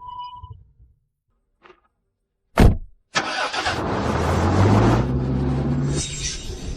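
A loud thump, then a truck engine starts and revs up, its pitch climbing in steps as the vehicle pulls away.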